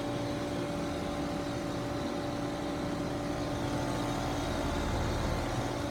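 5-ton heat pump outdoor unit running in heat mode: a steady hum with a few held tones from the compressor and condenser fan.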